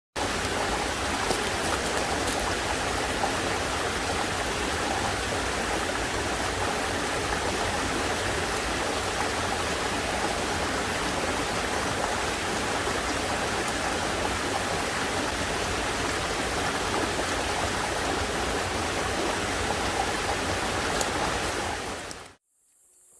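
Heavy rain falling in a steady, dense hiss, which cuts off suddenly near the end.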